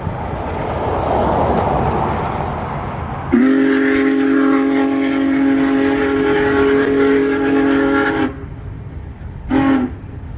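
Union Pacific Big Boy 4014 steam locomotive approaching with a steady rush of noise, then sounding its chime steam whistle in one long blast of about five seconds, several notes together, cut off sharply. About a second later it gives a short toot.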